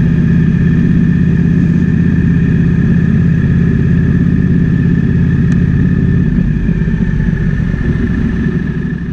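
Triumph Speed Twin 1200's parallel-twin engine running steadily on the move, with wind noise. About six seconds in the engine note drops, and the sound begins to fade near the end.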